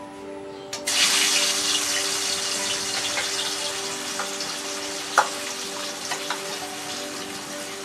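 Fish pieces dropped into a wok of hot oil set off a sudden, loud sizzle of frying just under a second in. The sizzle keeps hissing and slowly eases, with a sharp metal clink about four seconds after it starts.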